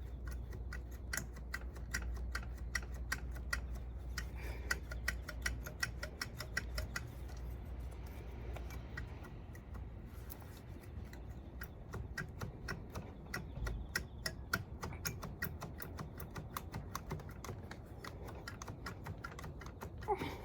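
Ratchet wrench clicking in quick, even runs of several clicks a second, with a short pause partway through, as engine bolts are turned.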